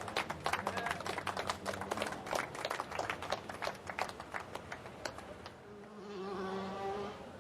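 A small crowd clapping with scattered, uneven claps for about five seconds. Near the end comes a steady held tone lasting about a second and a half.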